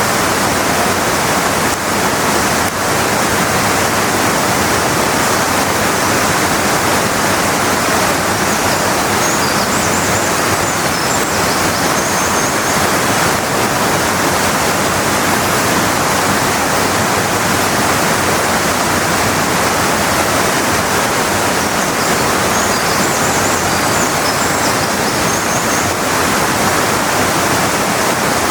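Waterfall rushing steadily, a dense even roar of falling water. Faint high-pitched chirps come through it twice.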